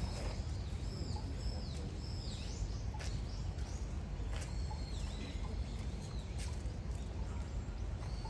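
Birds chirping in short, high, curved calls, repeated every second or so over a steady low outdoor rumble, with a few sharp clicks.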